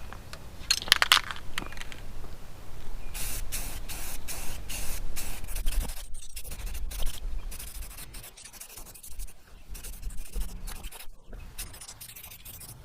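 Aerosol spray-paint can hissing in bursts as a light top coat is sprayed, the longest burst lasting a couple of seconds in the first half and shorter ones after it, over a low wind rumble on the microphone.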